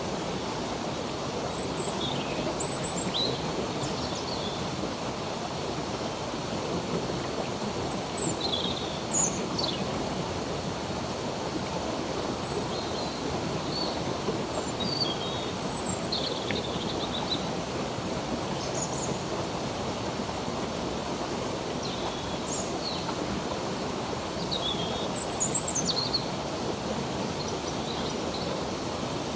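A stream running steadily, with several birds chirping over it in short high notes and quick downward slurs every few seconds.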